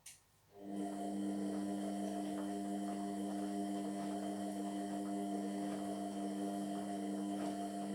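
Indesit MyTime washing machine mid-cycle: a click, then a steady electrical hum with a few fixed tones starts under a second in and holds level.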